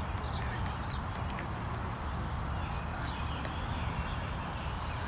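Birds chirping: short high calls a handful of times over a steady low rumble.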